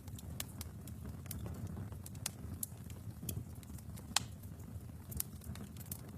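Wood fire crackling in a fireplace: irregular sharp pops and snaps over a low steady rumble of the flames, with one louder pop about four seconds in.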